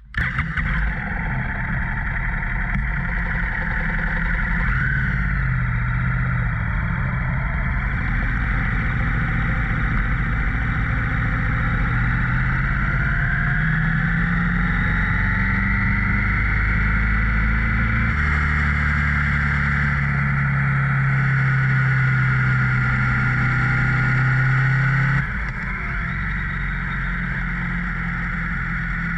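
Motorcycle engine running steadily, its pitch shifting now and then, with the sound changing abruptly about 18 and 25 seconds in.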